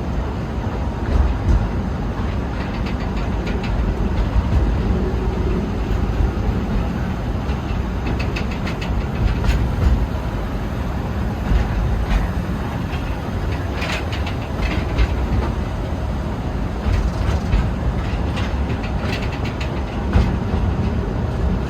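Narrow-gauge forest railway train running, heard from aboard a passenger car: a steady low rumble with irregular wheel clacks and knocks over the rail joints.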